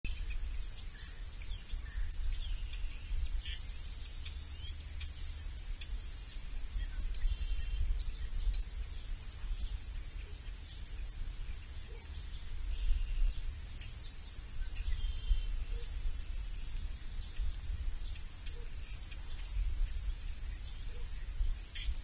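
Wild birds chirping and calling on and off, short high notes scattered through, over a steady low outdoor rumble.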